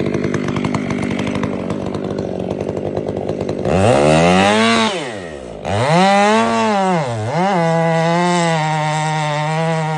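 Chainsaw felling a tree: it runs steadily, then from about four seconds in it revs up and falls back twice before holding at a steady high speed.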